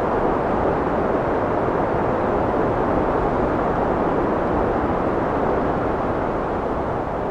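Steady wind blowing, a dense even rush centred in the low-mid range and easing slightly near the end.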